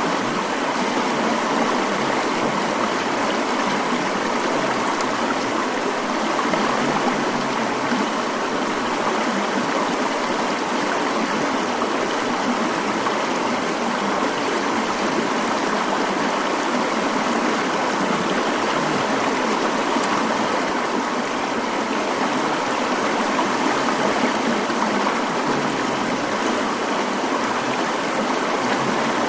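Mountain stream flowing steadily: an even, continuous rushing of water, strongest in the middle pitches with little deep rumble.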